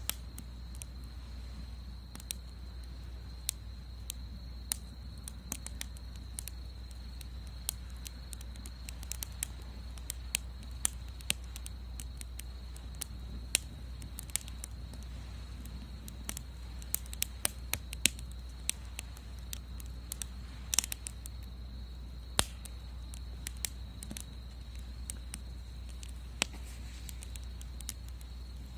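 Wood fire crackling in a Solo Stove Bonfire fire pit: irregular sharp pops, some louder than others, over a steady low rumble, with a faint steady high tone throughout.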